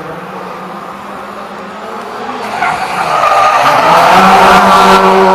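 Skoda Fabia R5 rally car running through a slalom, its engine growing much louder from about halfway through, with tyres squealing as it slides.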